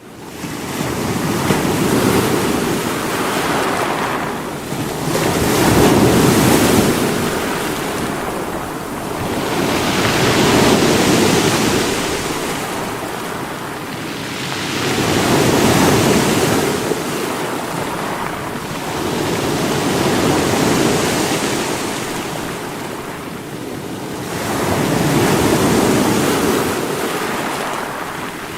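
Sea waves breaking against rocks, each surge swelling and washing back, about one every four to five seconds.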